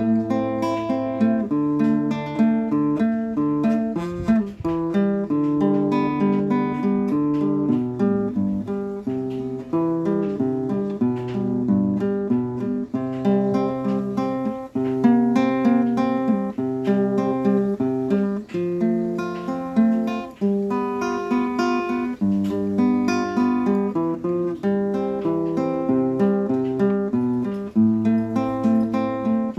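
Acoustic guitar music: plucked chords and melody over a steady bass line.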